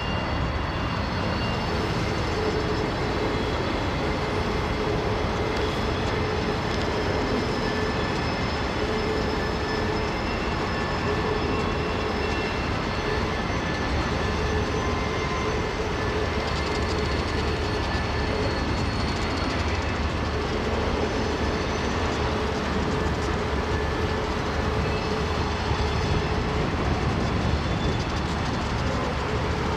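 Freight cars of a mixed freight train rolling past with a steady rumble and clatter of the wheels over the rails. Thin high-pitched tones come and go above it.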